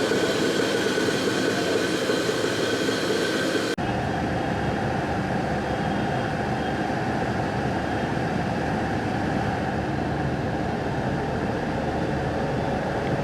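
Steady rumbling noise of a moving vehicle, with an abrupt change in its character about four seconds in.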